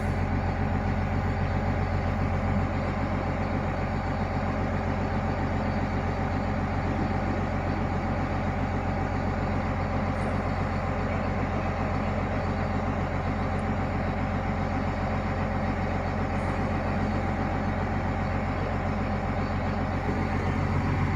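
A large engine idling steadily, a low even drone with no revving.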